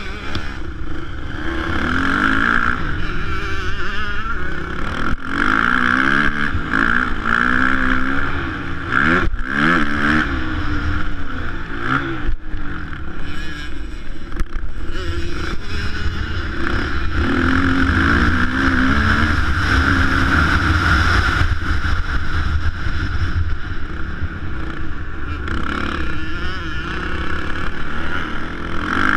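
Motocross bike engines revving, their pitch rising and falling again and again as the bikes accelerate and back off around the track.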